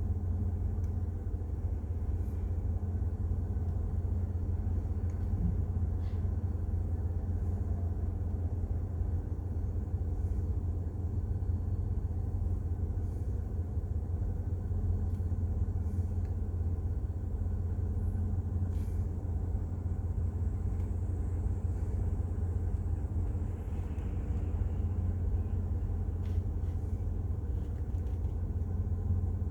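A steady low rumble with no speech, unchanging throughout, with a few faint ticks.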